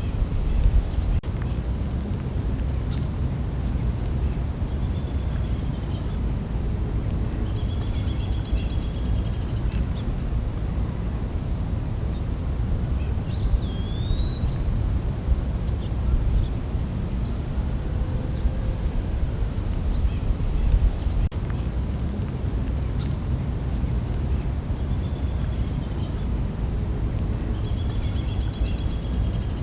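Night forest insect chorus: a steady high-pitched insect drone, with a cricket chirping in an even, regular pulse. Short bird calls come in twice, over constant low background noise.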